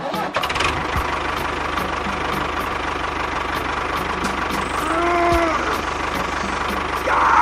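A small engine running steadily, with a faint tick repeating about three times a second. A short tone that rises and falls comes in about five seconds in.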